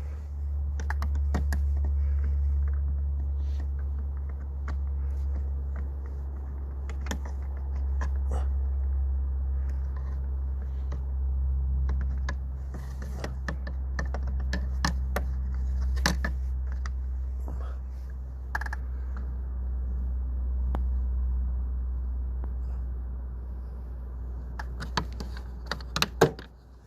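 Scattered plastic clicks and taps as the outside temperature sensor's clips and connector are worked loose behind a car's grille, with a cluster of louder clicks near the end, over a steady low rumble on the microphone.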